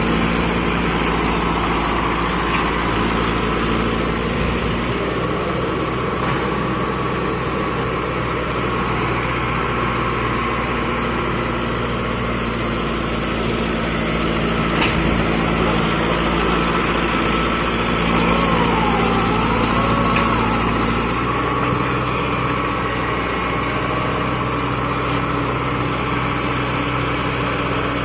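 Diesel tractor engines of a Mahindra Arjun 605 and a Powertrac Euro 47 running hard and steadily under heavy load while pulling against each other in a tug-of-war. The engine note shifts a little about five seconds in and again about two-thirds of the way through.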